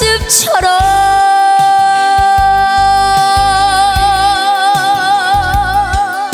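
A female trot singer scoops up into the song's final long note and holds it for about five seconds, over band accompaniment. The note is steady at first, then a vibrato sets in about halfway through and widens.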